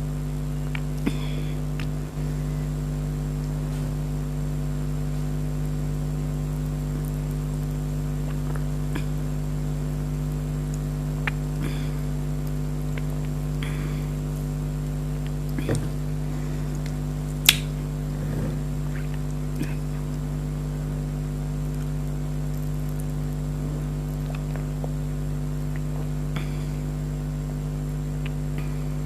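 A steady low hum runs throughout, under scattered short, soft sounds of someone drinking cold drinks: sips, swallows and small clicks of the container. One sharp click comes about two-thirds of the way through.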